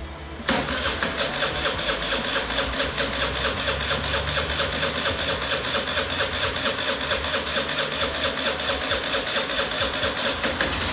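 Suzuki Address V50 scooter's 50cc fuel-injected four-stroke single catching suddenly about half a second in and running with a fast, even pulse. This is its first start after sitting unused for over a year, on a freshly fitted spark plug.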